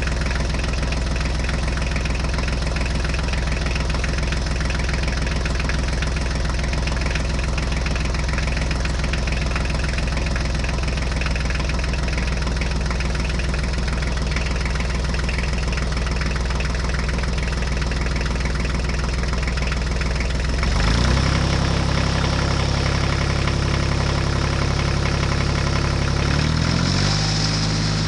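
Tractor engine sound running steadily at idle, then stepping up to a higher, louder pitch about 21 seconds in, as when the tractor pulls away, and shifting pitch again in steps near the end.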